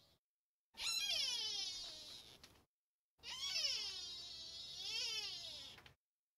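Two long, drawn-out animal calls with pure silence between them. The first slides steadily down in pitch; the second falls, rises again briefly and falls away.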